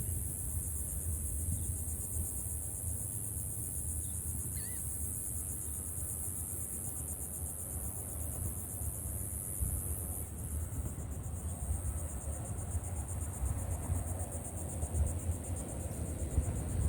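Insects trilling in a steady high-pitched chorus that turns more pulsing about ten seconds in, over a low rumble of wind on the microphone. A brief faint chirp comes about four and a half seconds in.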